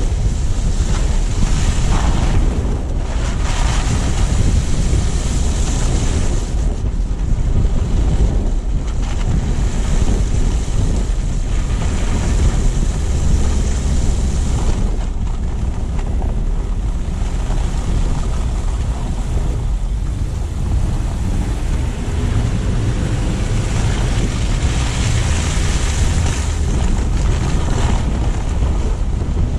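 Car driving along a road: steady low tyre and road rumble with a rushing hiss that swells a few times, and wind buffeting the camera's microphone.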